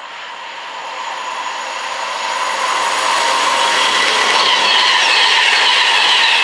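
Virgin Class 390 Pendolino electric train approaching and passing at speed: the rushing noise of its wheels on the rails and the air grows louder over about three seconds, then holds loud as the carriages go by close at hand.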